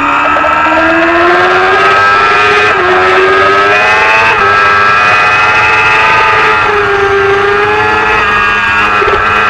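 Racing motorcycle engine running hard, its pitch climbing and falling with the throttle, with brief breaks at gear changes about a third of the way in, near the middle and near the end.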